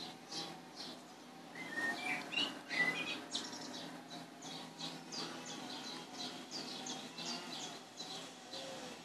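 Small birds chirping: short high chirps several times a second, with a few louder rising-and-falling notes about two seconds in.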